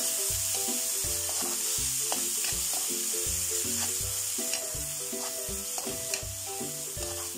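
Sliced onions, garlic and tomatoes sizzling in hot oil in a frying pan while being stirred with a spatula, with light scrapes and ticks of the spatula against the pan.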